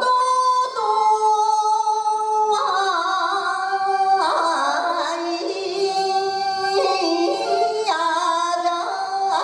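A woman singing a Japanese min'yō boat song, drawing out long held notes with ornamented turns that step gradually down in pitch.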